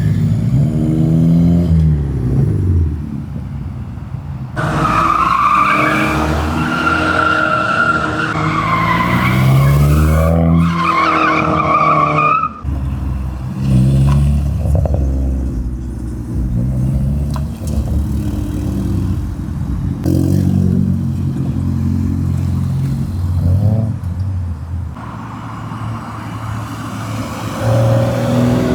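Car engines revving and accelerating as several cars drive past in turn. Tyres squeal loudly for about eight seconds, from roughly five to twelve seconds in.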